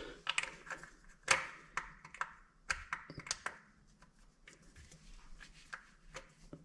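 Irregular small sharp clicks and taps of hard parts being handled around a toilet's base bolts, the loudest about a second in.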